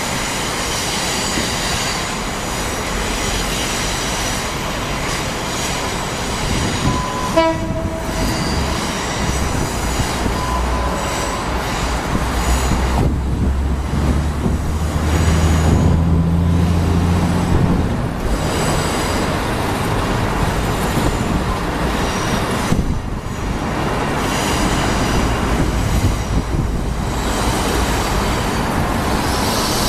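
Two HXD1D electric locomotives and a DF4 diesel locomotive passing slowly, with steady wheel and rail noise, high wheel squeal and a whine. A short horn blast sounds about seven seconds in, and the DF4's diesel engine runs low and loud as it goes by around the middle.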